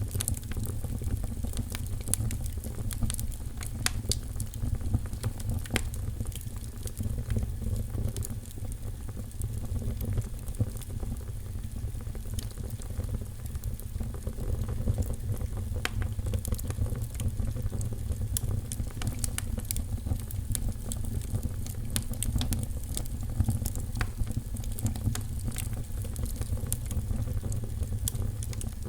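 Wood fire crackling in a fireplace: a steady low noise of flames with many small, irregular sharp pops.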